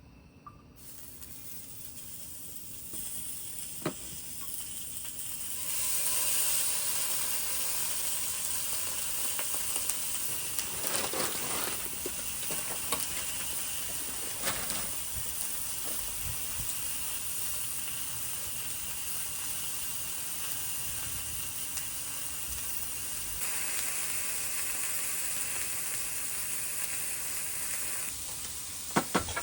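Food sizzling in a hot pan, a steady frying hiss that grows louder in steps over the first few seconds and then holds, with a few sharp clicks near the end.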